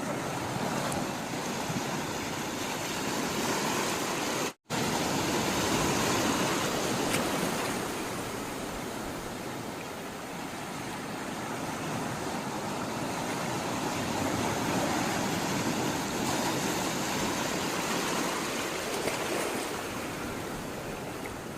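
Steady rush of sea water, swelling and easing slowly, with a split-second dropout to silence about four and a half seconds in.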